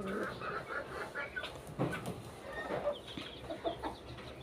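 A flock of domestic pigeons calling and scuffling, many short scattered calls with a few sharp knocks, such as birds quarrelling among themselves.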